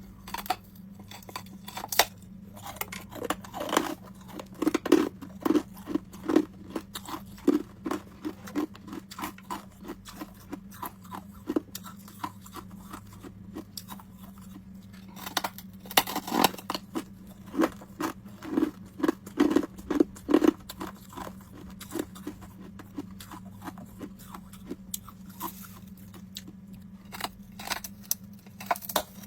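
Homemade ice cubes being bitten and chewed close to the microphone: sharp, crisp crunches, in places coming in quick runs of regular chewing. A steady low hum sits underneath.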